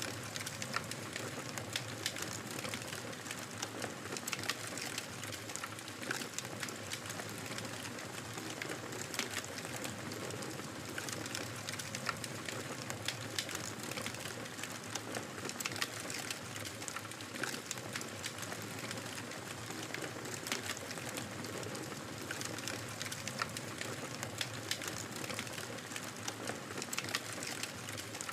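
Fire in a fireplace crackling: a steady hiss with frequent sharp pops and snaps.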